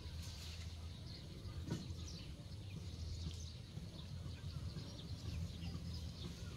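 Outdoor ambience: birds chirping repeatedly in short high calls over a low steady rumble, with one sharp click a little under two seconds in.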